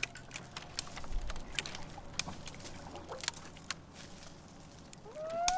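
Scattered sharp clicks and taps, irregularly spaced, over a faint steady hum.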